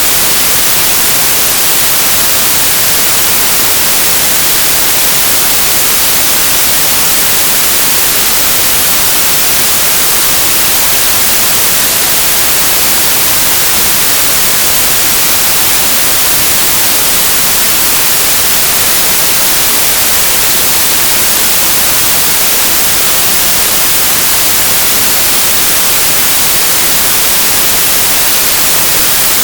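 Synthesised white noise: a steady, even hiss with a flat spectrum, bright and treble-heavy, unchanging throughout.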